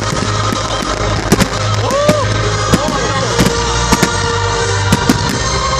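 Fireworks finale: a rapid, irregular run of sharp bangs from bursting shells, with a couple of short whistling glides, over steady background music.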